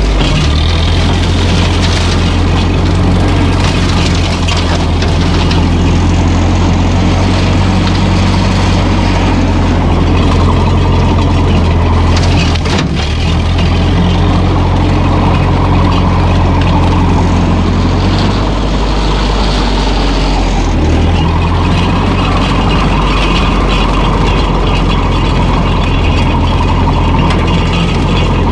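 Old Ferguson tractor's engine running steadily under way. The engine note changes briefly about 13 s in, and again for a few seconds around 18 to 21 s.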